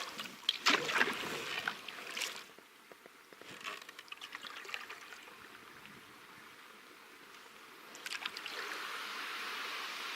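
Canoe paddle splashing and dripping water in the first couple of seconds, a few light drips and knocks after that, then a steady rushing noise like running water near the end.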